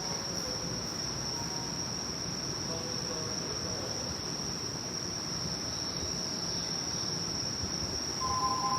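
A steady high-pitched insect trill, typical of crickets singing on a late-summer night, over low station background noise. Near the end a chime of stepped electronic tones begins.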